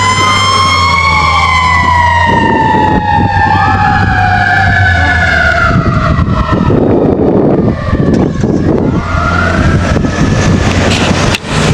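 Fire engine responding with its electronic siren wailing in slow sweeps over the steady rumble of its engine. About halfway through the siren gives way to louder engine and road noise, and a fainter wail rises again near the end.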